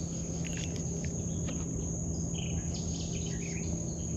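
Insects trilling in one steady high-pitched drone, with a few faint short chirps over a low steady rumble.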